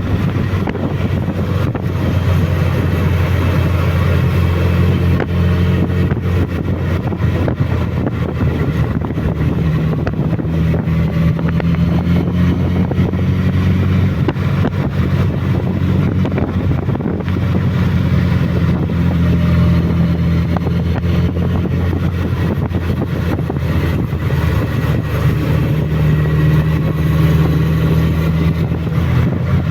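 Suzuki Bandit motorcycle's inline-four engine running on a mountain descent, its engine speed stepping up and down as the bike works through the bends.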